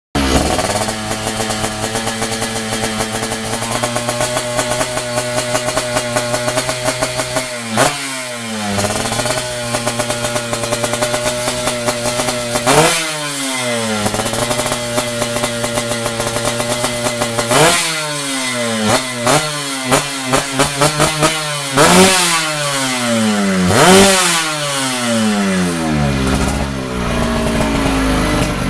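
116cc two-stroke drag-race motorcycle engine running during carburettor tuning. It idles steadily and is blipped to high revs several times, each time snapping up and falling straight back, with a quick run of short blips past the middle.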